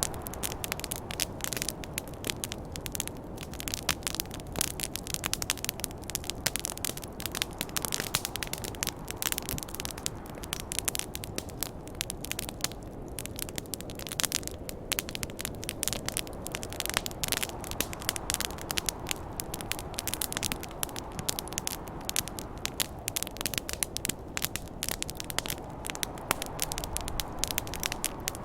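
Wood fire burning, with dense, irregular crackling and popping over a steady low rushing noise.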